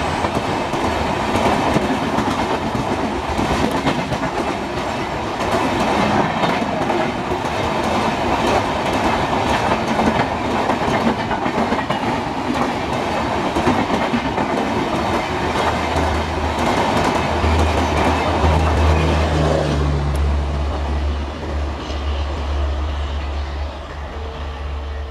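Express train coaches rushing past at speed: a loud rattling rumble with rapid clickety-clack of wheels over rail joints. About twenty seconds in the clatter fades as the last coaches pull away, leaving a low steady rumble.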